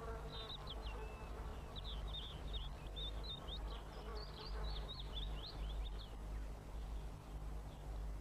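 Small birds twittering: a run of quick, high chirps lasting about six seconds, over a low steady hum.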